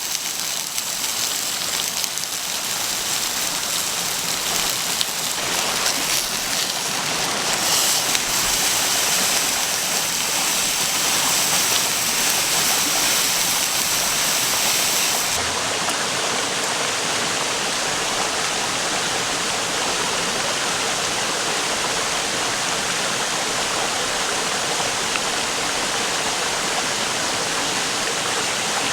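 A river stream flowing steadily, a continuous rushing water sound; about halfway through the highest part of the hiss drops away.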